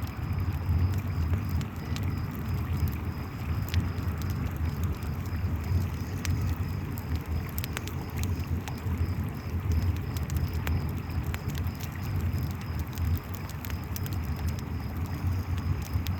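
Campfire crackling with scattered sharp pops, over the steady low rush of a river, with crickets chirping in an even high pulsing trill.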